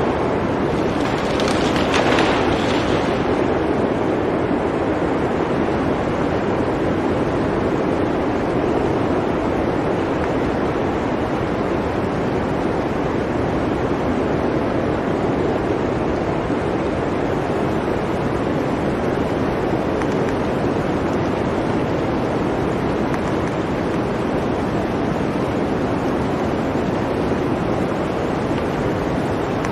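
Blizzard wind blowing steadily, with a stronger gust about two seconds in.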